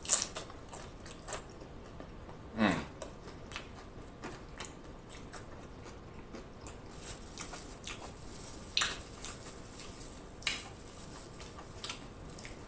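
Close-miked chewing of a mouthful of loaded nachos: tortilla chips with cheese and toppings worked with the mouth closed, giving a steady run of small wet mouth clicks with a few louder smacks scattered through.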